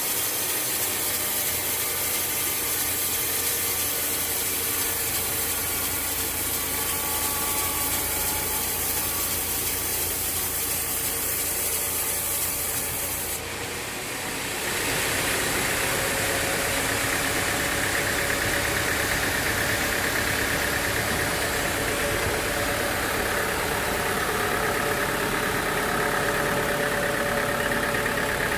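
Sawmill machinery running with steady engine noise, with wood being sawn. About halfway the sound changes abruptly to a steadier engine note with a continuous whine.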